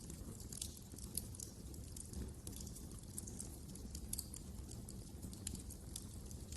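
Wood fire crackling in a fireplace: irregular sharp pops and snaps over a low steady rumble of the burning fire.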